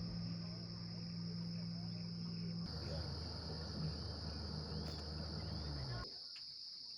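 Evening chorus of crickets, a steady high-pitched trill, over a low engine hum that drops in pitch and cuts out about six seconds in. A few faint bird chirps come through in the middle.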